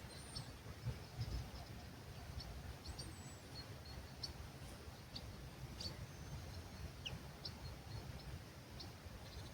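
Small birds singing at dawn: short, high chirps every half second or so and a few thin whistled glides, over a steady low rumble of breeze.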